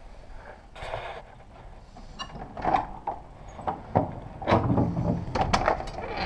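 A door being opened and handled: a short rush, then a run of sharp knocks and clatters that grow louder in the second half.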